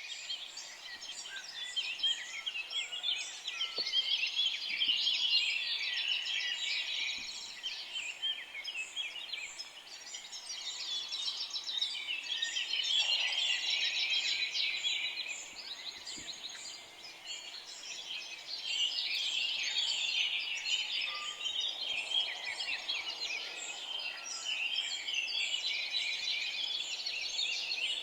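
A flock of small birds chirping in a dense, overlapping chorus of short high calls, swelling and fading in waves.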